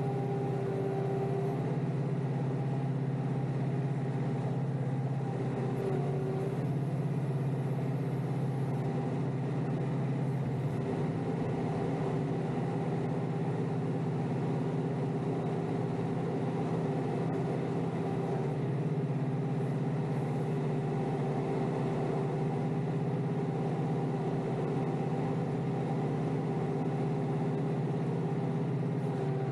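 Kioti DK5320SE tractor's diesel engine running at a steady speed while pushing snow.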